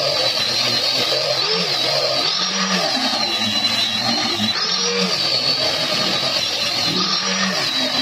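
A power tool running steadily, its pitch rising and falling about every two and a half seconds.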